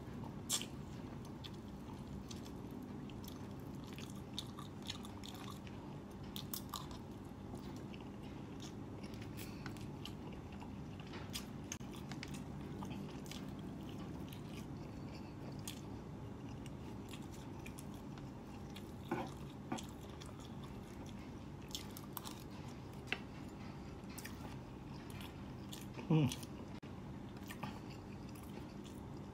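Close-up chewing and biting of a person eating fried duck and fried tofu by hand, with scattered small clicks over a steady low hum. A brief louder sound stands out about three seconds before the end.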